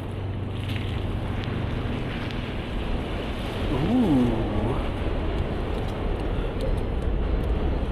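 Steady city street noise of passing traffic mixed with wind buffeting the microphone during a snowstorm. About four seconds in, a brief tone rises and then falls over about a second.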